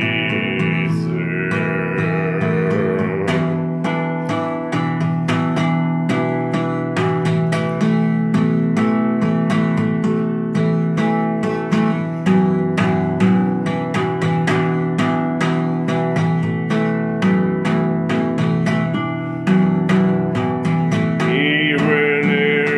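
Music: an instrumental passage of a song led by strummed guitar, chords struck in a steady rhythm.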